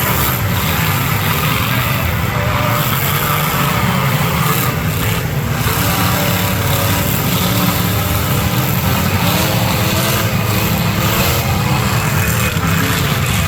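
Several demolition derby cars' engines running loud together, their pitches rising and falling as they rev.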